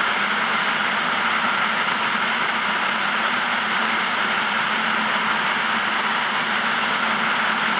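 Flash-flood water pouring over a sandstone canyon pour-off and rushing below: a loud, steady rush of water with no breaks.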